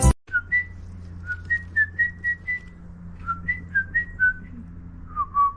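A series of short, clear whistled notes in quick runs, a few sliding down in pitch, with short pauses between the runs.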